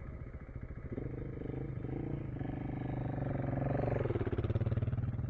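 Single-cylinder KTM enduro motorcycle engine under throttle. It rises in pitch and loudness over a few seconds, then eases slightly.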